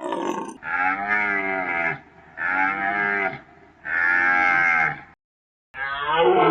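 Cow mooing: three drawn-out calls of about a second each, one after another. After a short break, a different animal call with a falling pitch starts near the end.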